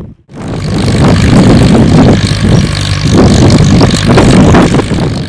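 Old farm tractor engine running loudly close by, with a throbbing low pulse.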